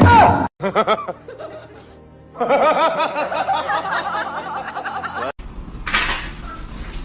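People laughing over background music, after a short loud cry at the start; a hissing noise follows near the end.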